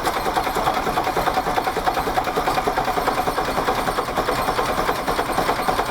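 Gardner marine diesel boat engine running with a steady, rapid even beat.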